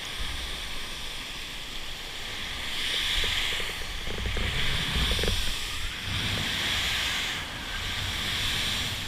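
Waterfall's steady rush of falling water, swelling and easing every second or two, with wind rumbling on the microphone.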